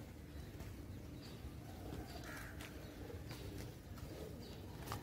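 Faint outdoor bird calls: a few short calls over low background noise, the clearest about two seconds in.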